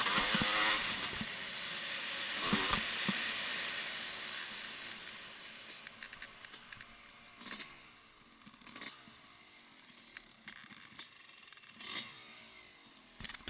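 A motocross bike's engine running loud at the start, then fading steadily over about six seconds as it moves away, followed by a few faint scattered knocks.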